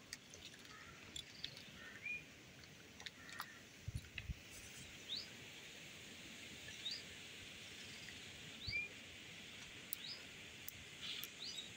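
Faint background of a bird giving short rising chirps every second or two, with a few soft taps and clicks from a steel spoon spreading cream over a cake, including two low thuds about four seconds in.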